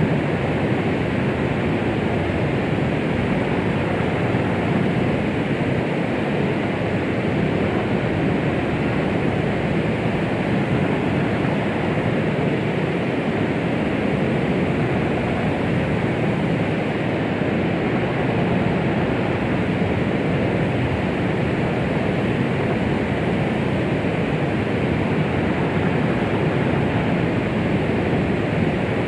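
Steady white noise of the 'womb sound' kind, an unbroken hiss weighted toward the lower pitches, with no changes or events.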